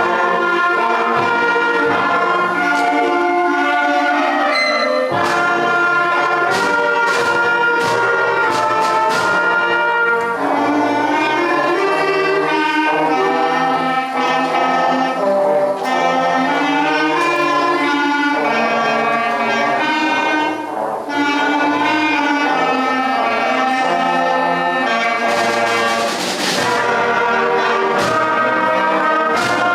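A school concert band playing, led by brass, in a steady series of held and moving notes with cymbal strokes and a louder crash near the end.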